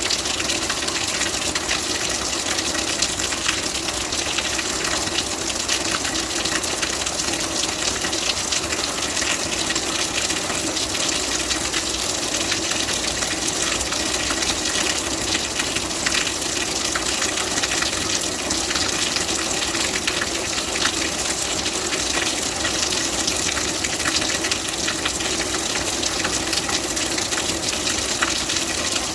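Steady rain: a constant dense hiss of falling water, strongest in the treble, with countless tiny drop impacts and no let-up.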